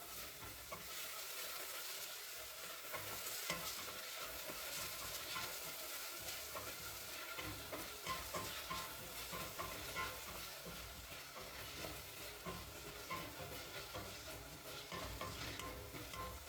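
Food sizzling as it fries in a pot or pan while being stirred, with frequent light scrapes and taps of the spoon against the pan over a steady sizzle.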